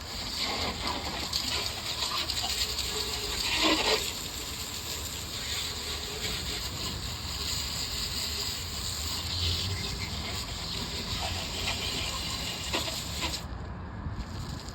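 A jet of water spraying steadily onto a lawnmower to wash off dirt, with a louder rush about four seconds in; the spray cuts off briefly near the end and then starts again.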